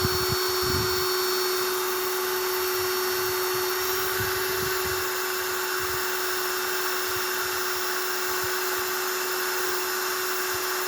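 A small electric motor runs steadily with a constant whine, with scattered light knocks beneath it.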